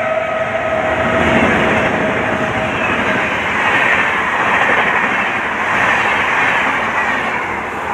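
LHB coaches of an express train hauled by a WAP-7 electric locomotive rushing past at speed, a loud steady rush and rattle of wheels on rail. The tail of the locomotive's horn, already dropped to a lower pitch, fades out about three seconds in.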